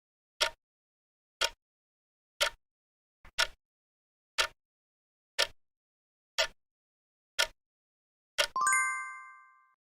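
Quiz countdown timer ticking once a second, then a bright chime of several pitches near the end that rings and fades over about a second, signalling that the answer time is up.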